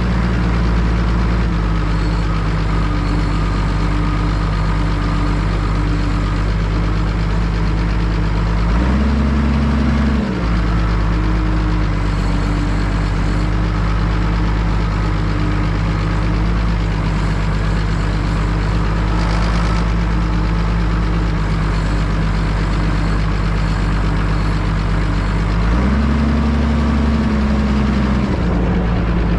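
1988 Zetor 16145 tractor's straight-piped turbocharged six-cylinder diesel running steadily, with the revs rising briefly twice, about a third of the way in and again near the end.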